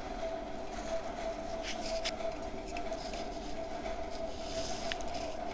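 Soft, scattered crackles of chewing crunchy homemade slate pencil paste close to the microphone, over a steady hum.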